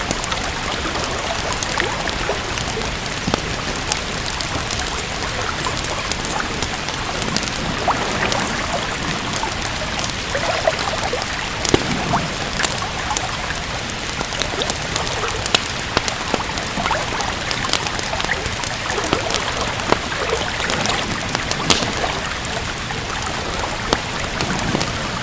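Steady rain falling, with the crackle and pop of a wood fire in a fireplace: scattered sharp snaps over an even hiss.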